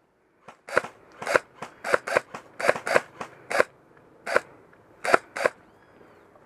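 Airsoft guns firing single shots: about a dozen sharp cracks at an irregular pace, some in quick pairs, stopping near the end.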